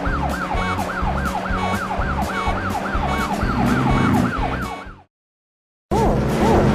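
Cartoon emergency-vehicle siren in a fast yelp, its pitch rising and falling about three times a second over a steady low beat. It cuts out about five seconds in, comes back briefly, then cuts off again.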